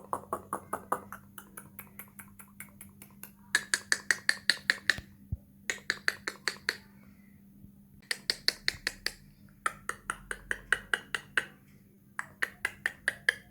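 Rapid runs of sharp clicks, about eight a second, coming in several bursts of one to two seconds with short pauses between.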